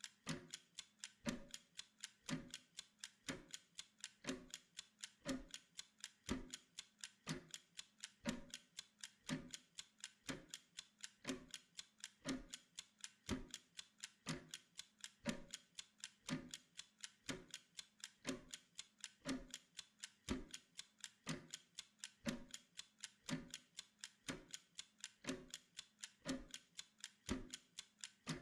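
A clock-like timer ticking steadily: quick, even ticks several times a second, with a heavier tick about once a second.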